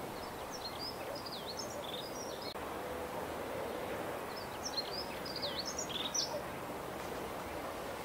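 A small songbird chirping in two bursts of quick, high notes about four seconds apart, over a steady outdoor background hiss.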